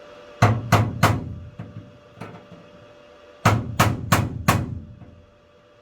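Hammer blows on a punch driven into a shower pan, pressing a recessed dish around the drain hole so water can drain. Three quick strikes, a couple of light taps, then four more quick strikes.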